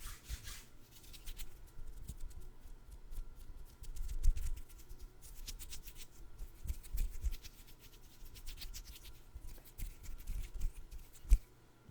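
Close-miked hands handling food items for ASMR, making rapid crisp clicks, scratches and rubbing, with soft low thumps. A louder knock comes about four seconds in and another just before the end.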